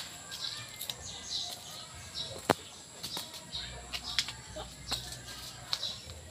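Small birds chirping in short, repeated high calls, with scattered light clicks and rustles of footsteps on dry leaf litter.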